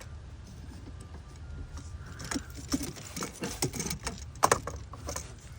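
Light clicking and rattling as an EVAP line and its fittings are handled and maneuvered into place, over a steady low hum.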